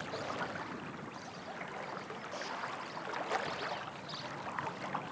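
River water running past a sandy bank, with a few faint high twitters of sand martins over it.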